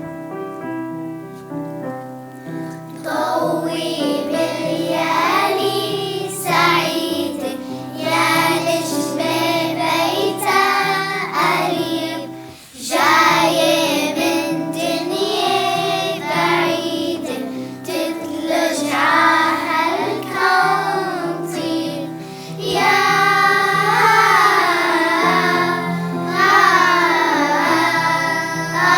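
Children's choir singing a song with instrumental accompaniment; the accompaniment plays alone for the first three seconds before the voices come in.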